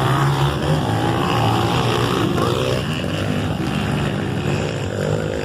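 Several motocross motorcycle engines running on the track, their pitches rising and falling as the riders work the throttle, over a steady low drone.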